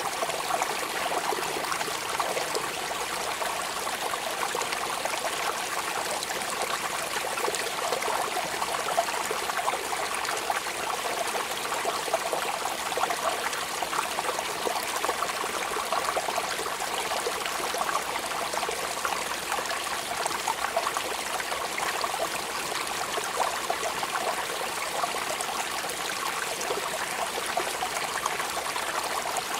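Steady rain falling: a dense, even hiss of countless small drop impacts with no let-up.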